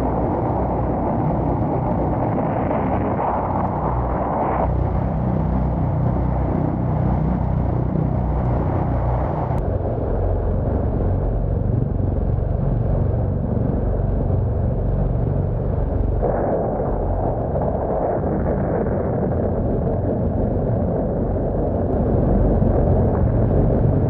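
Film soundtrack of an airliner's engines droning steadily in flight, a loud, even rumble whose tone shifts abruptly about 5, 10 and 16 seconds in.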